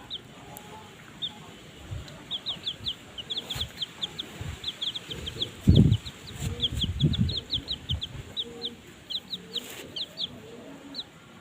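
Polish chicken chicks peeping: many short, high cheeps, several a second, from about two seconds in. A few low thumps come around the middle, the loudest just before halfway.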